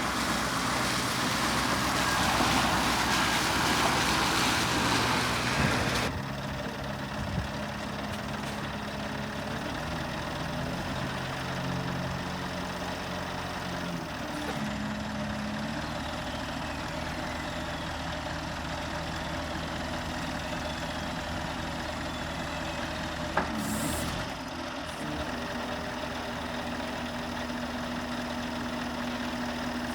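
A vehicle engine running steadily. For the first six seconds a loud rushing noise plays over it, then cuts off suddenly.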